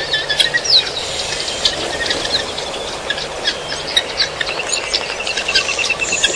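Several wild birds calling over one another, with many short chirps and whistles. A rapid run of evenly spaced notes comes near the end.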